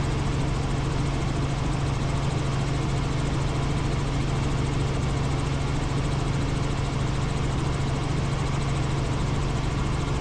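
Helicopter in flight: a steady drone of engine and rotors with a strong low hum, unchanging throughout.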